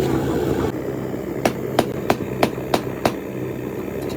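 Six sharp knocks in a row, about three a second, struck over the steady hum of a running engine or machine.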